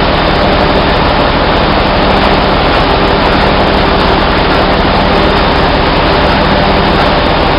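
Steady, loud machinery drone of a ship's engine room, a constant low hum under a dense rushing noise.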